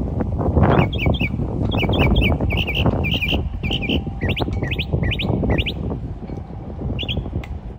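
A songbird calling in a quick series of short high chirps, some in pairs and some as brief rising notes, over a loud low rumbling noise.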